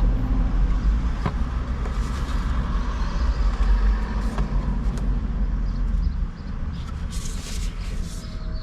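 Low rumble of a nearby motor vehicle's engine, which drops away about six seconds in, with a few short clicks and scratchy noises near the end.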